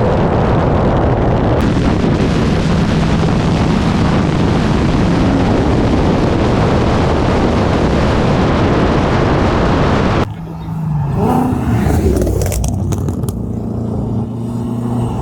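A car running hard at speed, its engine nearly buried in loud, steady wind and road noise for about ten seconds. Then the sound cuts off abruptly into a quieter stretch where an engine runs at lower, slowly changing revs.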